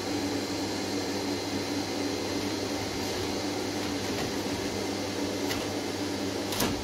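Steady mechanical hum, like a fan or motor running, with a faint even hiss and a short click near the end.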